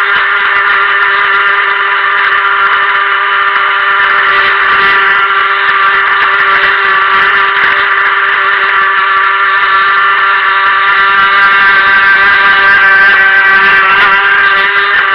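Helion Rivos RC boat's stock brushed motor running under steady throttle: a continuous high electric whine, getting slightly louder past the middle.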